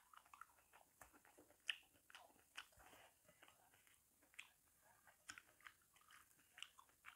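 Faint, wet chewing and lip-smacking of someone eating soft, ripe jackfruit, heard as scattered short clicks and smacks.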